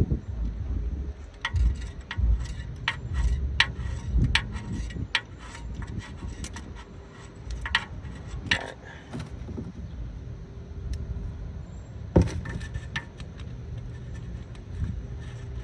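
Irregular metallic clicks and clinks of a socket wrench and extensions as a new spark plug is run in by hand, with low wind rumble on the microphone.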